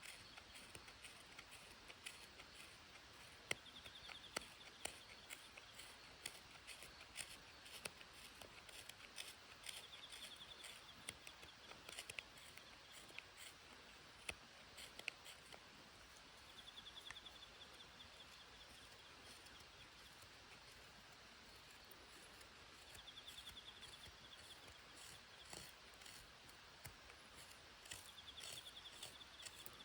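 Faint scattered clicks and taps, like small objects being handled, with a short high trill of about a second that comes back roughly every six seconds.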